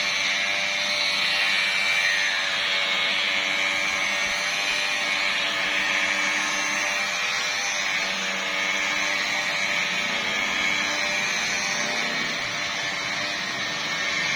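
Electric car polishing machine running steadily on the bonnet paint during the first polishing step, with a constant motor hum under a rubbing hiss from the pad.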